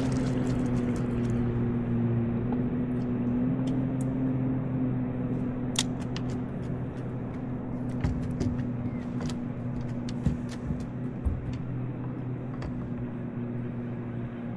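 A motor running steadily at one constant pitch, with scattered light clicks and taps over it.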